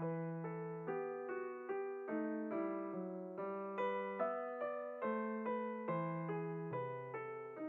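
Background piano music: an evenly paced line of struck notes, each fading away, over low held bass notes, starting suddenly out of silence.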